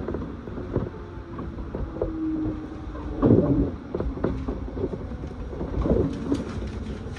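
Inside the cabin of an electric commuter train running on the JR Chikuhi Line: a steady low rumble with irregular knocks and clunks from the car, and a steady hum for a couple of seconds near the middle.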